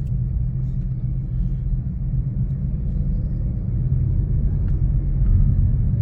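Steady low rumble of a car driving slowly in traffic, heard from inside the cabin.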